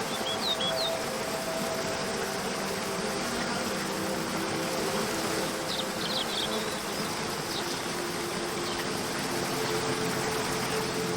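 Waterfall rushing steadily under soft, held music tones, with brief bird chirps about half a second in and again around six seconds in.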